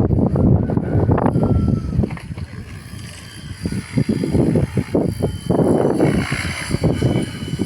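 Strong wind buffeting the microphone in irregular gusts, dipping for a moment before building again.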